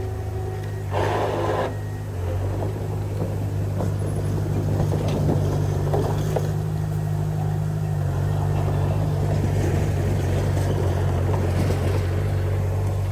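Heavy-equipment diesel engine running steadily under load, with scattered metallic clanks and knocks. A short burst of hissing noise about a second in.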